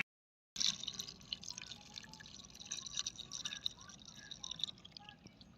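Faint water trickling and dripping, with small irregular splashes, after a sudden start about half a second in.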